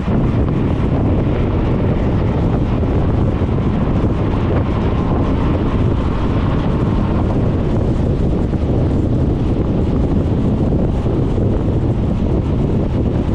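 Steady rush of wind on the microphone of a GoPro mounted on a moving Suzuki Burgman 400 scooter, with the ride's vehicle noise underneath.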